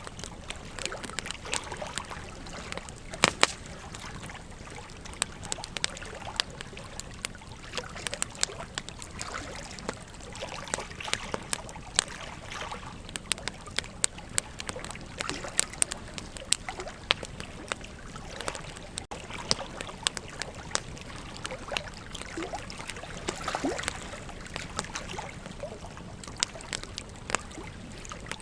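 Wood fire crackling, with frequent irregular sharp pops and snaps, over the steady flow of a river.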